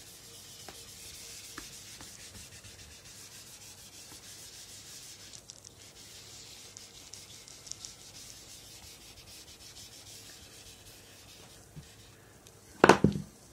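Faint, continuous scratching of a writing instrument moving across a writing surface, with small ticks between strokes. A brief loud sound near the end.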